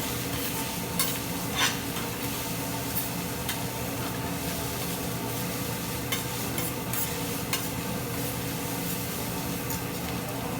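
Vegetables sizzling steadily on a hibachi griddle, with the chef's spatula clicking and scraping on the hot metal now and then.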